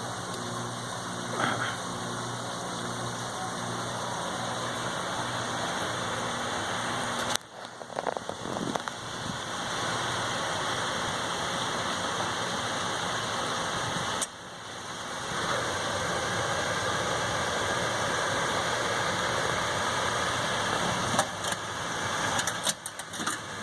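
Hayward H100ID pool heater running with a steady grinding noise over a low hum, the fault its owner cannot identify. The sound drops out sharply for a moment about a third of the way in and again about two-thirds of the way in.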